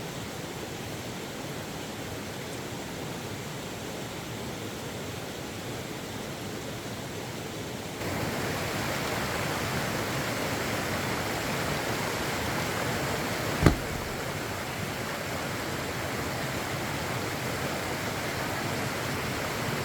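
A steady rushing noise, like running water, that gets louder about eight seconds in, with a single sharp knock a little past the middle.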